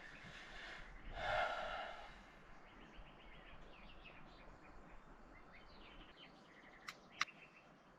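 Outdoor ambience with small birds chirping softly, a short breathy noise about a second in, and two sharp clicks near the end.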